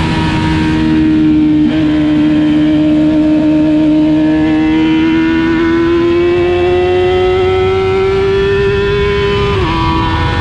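Racing motorcycle engine heard onboard at speed, its note climbing slowly and steadily under full throttle, with wind rush on the microphone. Near the end the pitch drops sharply and settles lower: a gear change.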